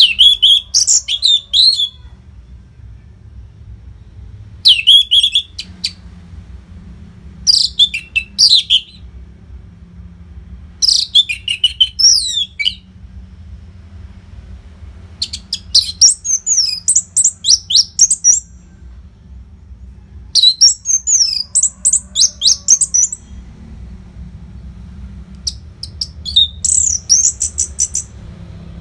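Orange-headed thrush singing: about seven loud, rapid, high-pitched song phrases of one to three seconds each, with short pauses between them, over a faint low hum.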